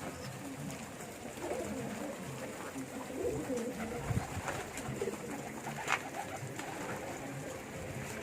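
Domestic pigeons cooing, several birds' calls overlapping continuously, with two sharp clicks about four and six seconds in.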